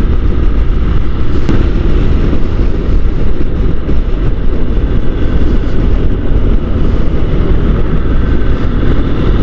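Motorcycle riding along at speed, a steady loud rush of wind on the microphone over the engine's low rumble.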